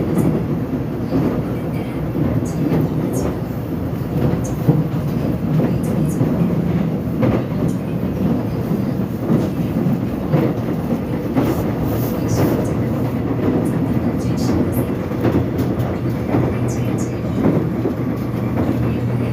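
Korean subway train running between stations, heard from inside the carriage: a steady rumble of wheels on the track, with scattered short clicks and rattles. A low steady hum joins about fifteen seconds in.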